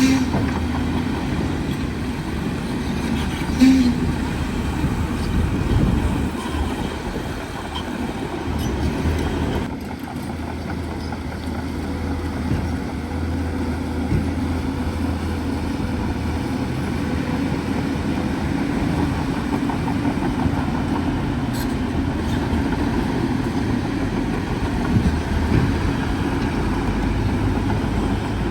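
Heavy diesel engine of a bulldozer running steadily with a low drone, with a couple of brief knocks in the first few seconds.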